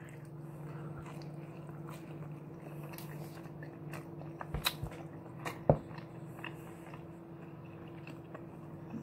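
A person chewing a mouthful of beef quesadilla stuffed with Hot Cheetos, close to the microphone: soft wet mouth clicks, with two sharper clicks about four and a half and nearly six seconds in. A low steady hum runs underneath.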